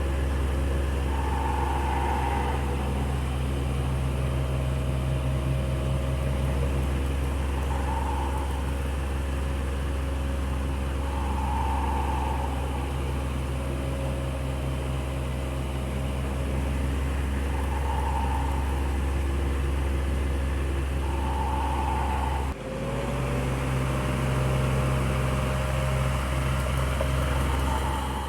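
Electric fan running steadily: a low motor hum with a whoosh of moving air, and a brief drop in the sound about three-quarters of the way through.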